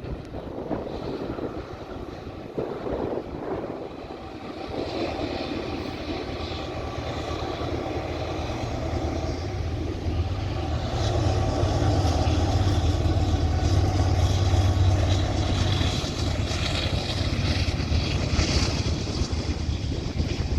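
Norfolk Southern freight train's diesel locomotives approaching and passing, a low engine rumble growing louder from about four seconds in and loudest in the second half.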